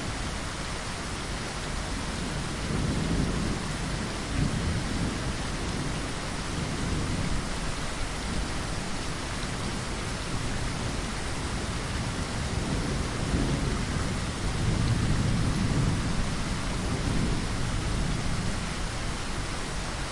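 Steady heavy rain against a window, with distant thunder rumbling low and swelling twice, about three seconds in and again for a few seconds past the middle.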